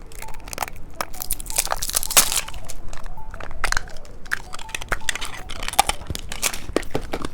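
Close-miked crinkling and crunching as candy in its plastic packaging is handled: a dense, irregular run of sharp crackles and clicks.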